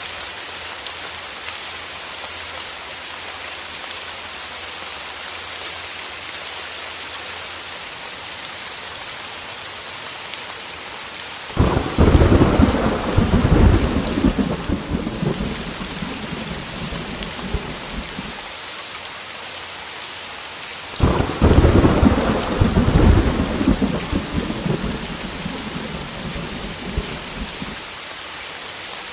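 Heavy rain falling steadily, with thunder rumbling twice: a sudden deep rumble about twelve seconds in that dies away over several seconds, and a second one about twenty-one seconds in.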